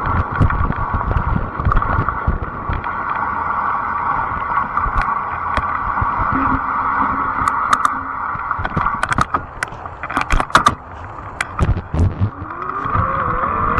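Fat-tire electric bike being ridden: a steady hum with wind rumble on the microphone, and a burst of clicks and rattles about two-thirds of the way through. A rising whine near the end as the bike picks up speed.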